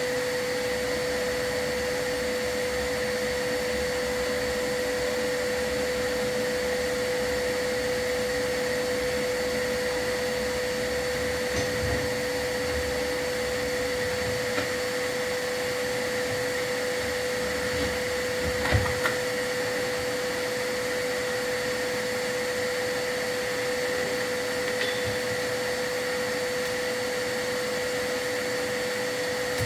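Vacuum running steadily with a constant whine, the kind used to pull soot from the firebox during a chimney sweep, with a few short knocks around the middle.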